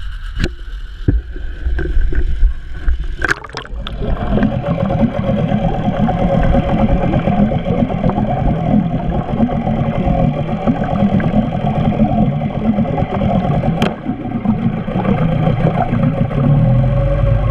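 8-hp two-stroke Nissan outboard motor running steadily with its standard three-blade propeller churning the water, after a few sharp knocks in the first four seconds. One more click comes near the end, and then the engine note starts to rise as it revs up.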